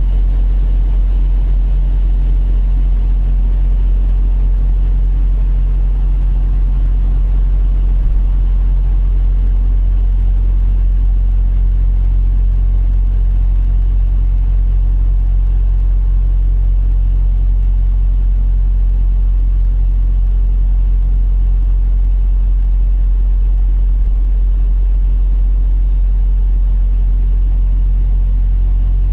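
Semi-truck diesel engine idling steadily, a constant deep hum with no revving.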